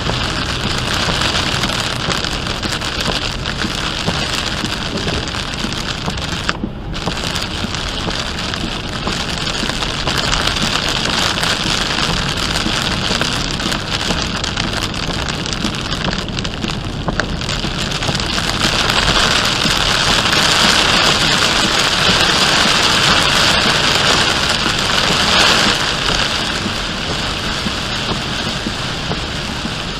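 Heavy rain beating on a moving car, with the hiss of wet highway beneath it. The rain noise briefly drops away about seven seconds in and is at its loudest in the second half.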